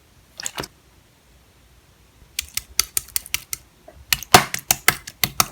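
Clear slime being pressed and squished by hand, giving sharp sticky clicks and pops: a couple about half a second in, then a fast irregular run of them through the second half.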